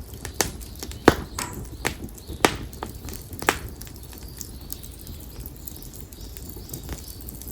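Split konara oak firewood crackling in an open fire: a handful of sharp pops in the first few seconds, the loudest about a second in, then fewer, smaller crackles. Birds chirp faintly in the background.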